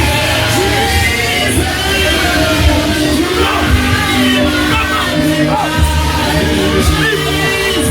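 Loud worship music: a crowd of voices singing together, with shouts and a steady drum beat.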